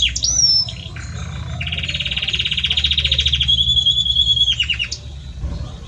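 Belgian canary singing: a rising note, then a fast rolling trill, a long held steady note, and a few quick falling notes near the end, over a low steady hum.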